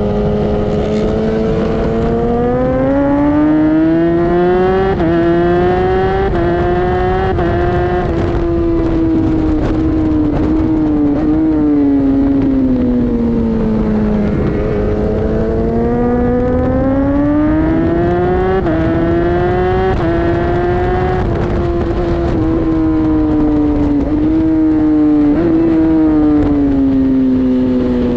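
Superbike engine being ridden hard around a race circuit. The revs climb with a quick dip at each of several upshifts, sink away, then climb again through more gear changes, over a constant rush of wind noise.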